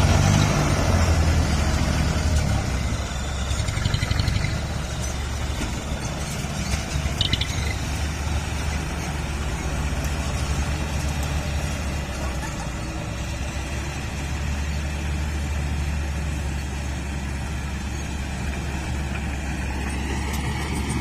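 Dump truck's diesel engine running at a steady idle, a little louder for the first few seconds before settling, with a faint click about seven seconds in.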